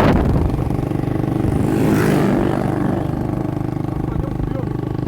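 Motorcycle engine running steadily, with a brief swell about two seconds in.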